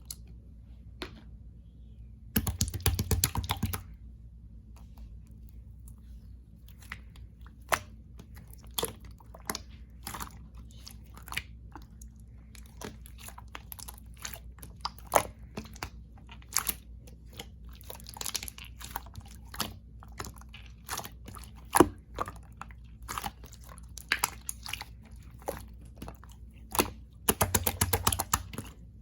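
Slime being pressed and poked by hand, making sharp clicking and popping sounds, about one a second at first and more often later. There are two short bursts of rapid crackling, one about two and a half seconds in and one near the end.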